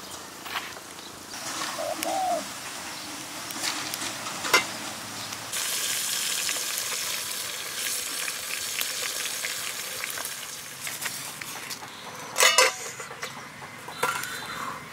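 Food sizzling in a cooking pot over a wood fire: a steady hiss with small crackles, growing stronger about five seconds in. Near the end a loud metal clank rings out once.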